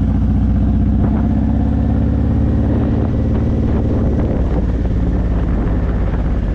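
Honda VTX1800's 1800cc V-twin, fitted with Vance & Hines pipes, running under way at a steady pitch. The engine note eases a little lower about halfway through.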